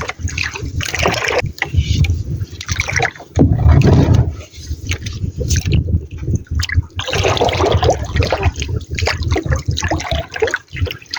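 Water splashing and sloshing against a small boat, with irregular knocks and a loud low rumble about three and a half seconds in.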